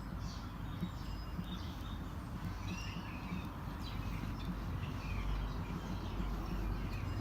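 Birds chirping in short repeated calls over a steady low outdoor rumble.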